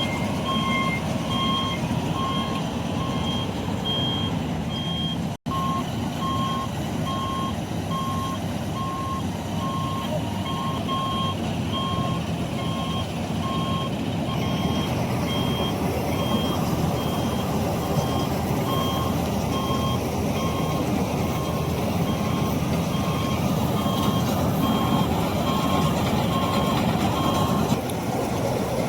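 Reversing alarm beeping over and over, two tones, over a combine harvester's diesel engine running steadily; the beeping stops near the end. A machine beeping like this is backing up.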